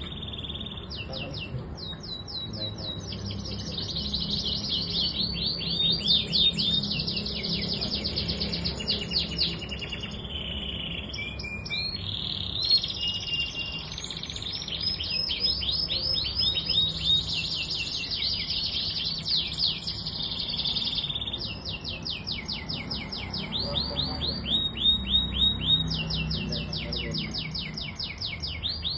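Domestic canary singing a long, unbroken song of rapid trills. Each trill is a fast run of repeated high notes, and the song moves from one trill to the next every second or two.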